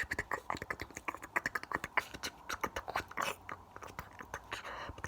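Fast, close-up ASMR mouth sounds: rapid, irregular wet clicks and smacks of the tongue and lips.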